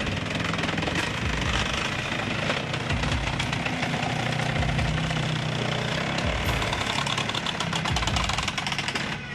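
Engine of a heavy wood-processing machine running steadily, with rapid mechanical clatter and knocking over it.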